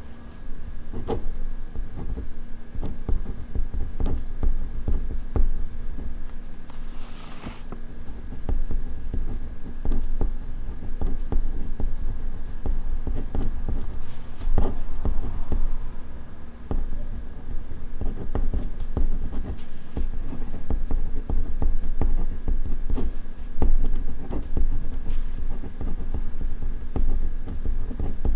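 Ballpoint pen writing on paper, a quick, dense run of small scratching strokes and taps, with a short rustling hiss about seven seconds in. A faint steady hum sits underneath.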